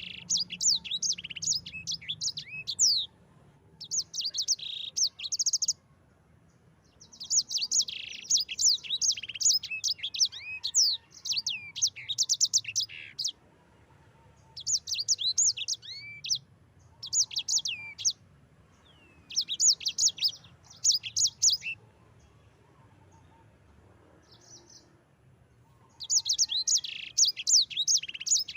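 Sanger songbird singing in repeated bursts of fast, high chirps and rolling trills, each phrase lasting a second or several seconds and broken by short pauses.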